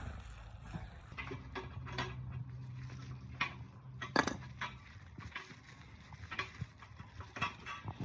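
Irregular light clinks and knocks of metal objects being handled, a dozen or so at uneven spacing, the loudest about four seconds in, over a low steady hum.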